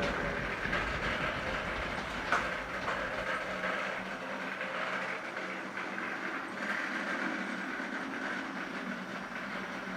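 Model train running along the layout's track: a steady rolling rattle of wheels on rail, with a sharp click about two seconds in, slowly growing fainter.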